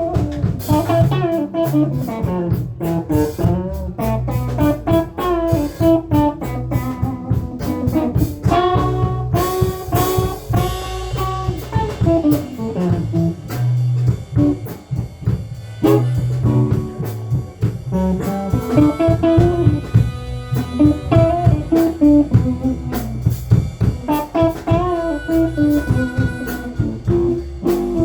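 Instrumental blues: guitar over drums and bass guitar.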